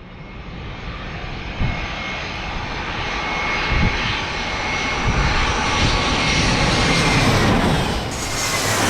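Airbus A320 airliner's jet engines on short final approach, growing steadily louder as it comes in, with a steady high fan whine over the roar that drops in pitch near the end as the plane passes.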